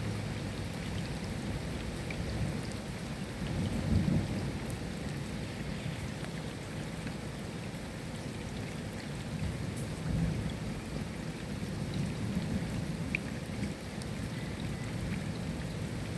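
Steady rain falling, with scattered drops ticking, under the low rumble of distant thunder that swells about four seconds in and again near ten seconds.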